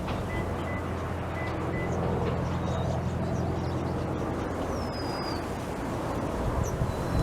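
A motor vehicle's low, steady hum, a little louder from about two seconds in. Above it, birds chirp here and there, with a short falling whistle about five seconds in.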